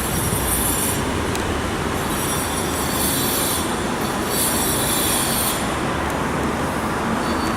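Nankai electric train running along the track at the station: a steady rumble of wheels on rail, with high-pitched wheel squeal rising and fading several times.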